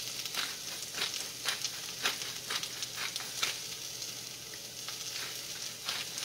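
Hash browns and chopped onion sizzling in bacon fat in a frying pan on high heat: a steady hiss with frequent crackles and pops.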